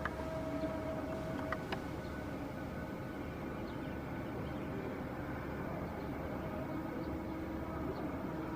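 Airliner engines running steadily at the airport: a low rumble with a steady whine over it.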